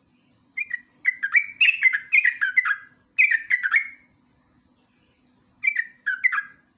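Yellow-vented bulbul (trucukan) singing loud runs of quick, bubbling, chattering notes in its 'ngeropel' style. There is a long phrase, a pause of about a second and a half, then a shorter phrase near the end.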